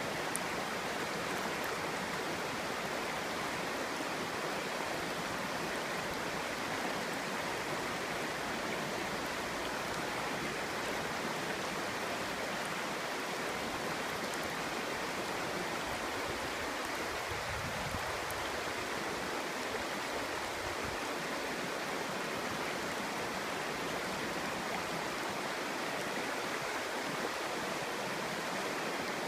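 Clear stream babbling steadily over rocks, an even rush of flowing water with a brief low rumble in the water a little past the middle.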